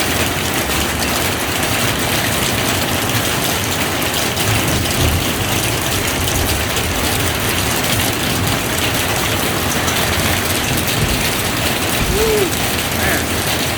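Steady rain falling in an even hiss, with short low rumbles about five seconds in and again near the end.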